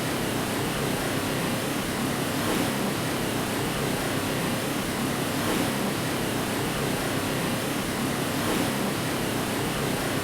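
Steady white noise, an even hiss weighted toward the low-middle range, with a faint swell about every three seconds.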